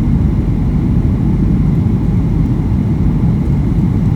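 Steady low rumble of engine and airflow noise inside the cabin of a Boeing 737-800, with no change in level.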